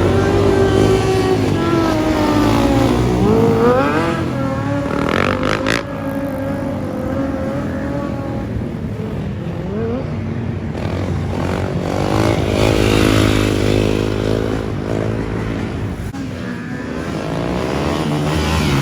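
Motorcycle engines revving, their pitch rising and falling repeatedly, with more than one engine running at once.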